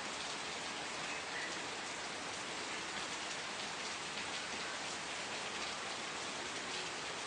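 Steady rainfall, an even hiss with scattered patter of individual drops landing on a surface.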